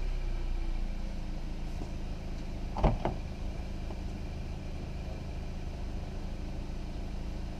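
2018 Hyundai Elantra's 2.0L four-cylinder engine idling steadily, easing down from a rev at the start. A single sharp click or knock comes about three seconds in.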